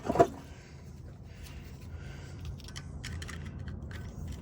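Light metallic clicks and scrapes from hand tools working a rusted exhaust fitting loose, with a sharp click right at the start, over a low steady hum.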